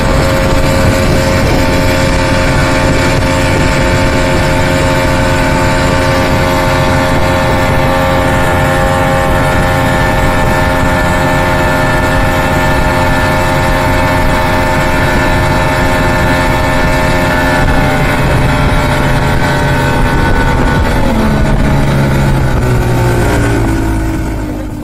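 Evinrude 200 HP V6 two-stroke outboard running at speed over a steady rush of noise. Its pitch falls over the last several seconds as the throttle comes back.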